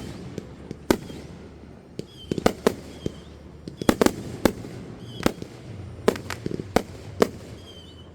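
Fireworks going off: a rapid, irregular string of sharp bangs and pops, some echoing, with a few short high whistling tones between them.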